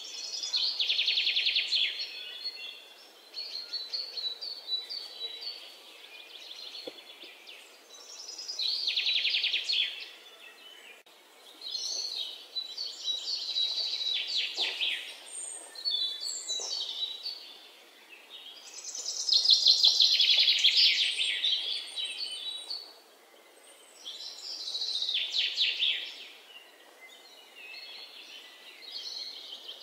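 Songbird singing: phrases of rapid trilled chirps, each a second or two long, repeated every few seconds over a faint background hiss.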